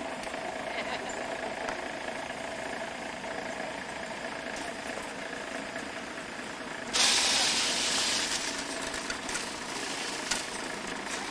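Steady hum, then a sudden loud hiss about seven seconds in that lasts about a second and trails off.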